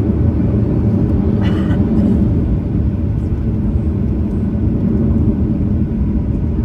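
Steady low rumble of cabin noise inside a Boeing 737-900ER on the ground before takeoff, with a brief higher sound about one and a half seconds in.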